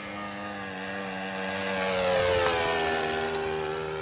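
Radio-control model airplane's engine on a low pass. It grows louder to a peak about halfway through, then its pitch drops as the plane flies past and away.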